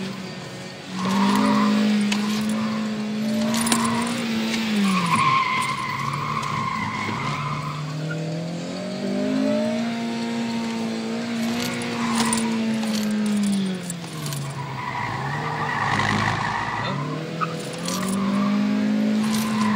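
2009 Honda Civic Si sedan's 2.0-litre four-cylinder engine heard from inside the cabin, its note climbing and dropping over and over as the driver goes on and off the throttle through an autocross course. The tires squeal in several stretches as they scrub in understeer, and loose change rattles in a console compartment.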